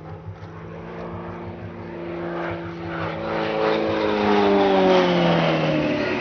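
Extra 330LT aerobatic plane's Lycoming IO-580 flat-six engine and propeller passing close by. The engine note grows louder to a peak about five seconds in, and falls in pitch as the plane goes past.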